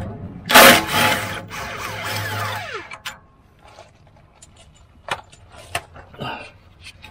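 Power tool with a 5/8 socket, loosening an exhaust flex-pipe clamp nut: a short loud run that carries on more quietly and winds down with a falling whine about three seconds in. Then a few light metallic clicks and taps.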